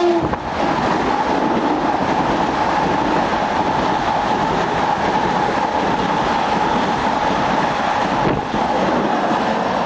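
Long Island Rail Road M7 electric multiple-unit train passing close by at track speed, about 80 miles an hour: a steady loud rush of wheel and air noise with a steady whine running through it.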